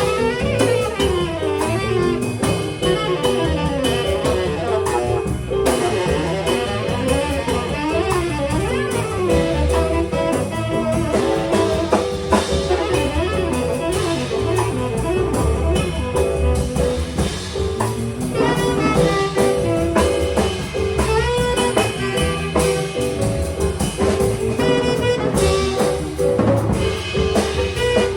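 Instrumental jazz: a melody line running and gliding over a drum kit, settling into longer held notes in the second half.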